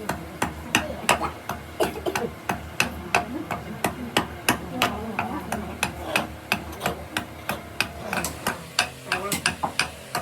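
Hand tool striking wood in a quick, uneven run of sharp knocks, about three a second, as in hammering or mallet-and-chisel work on a wooden rabab body.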